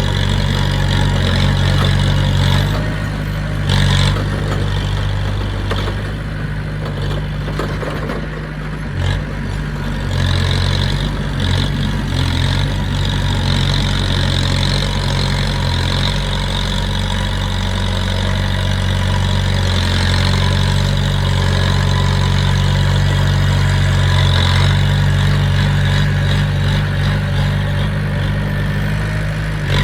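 Diesel engine of heavy earthmoving equipment running steadily at a low, even speed, with a brief knock about four seconds in and another about nine seconds in.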